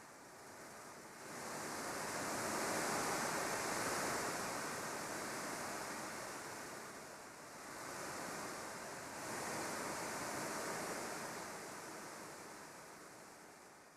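Sea waves washing in, an even rush of water that swells twice and then fades out near the end.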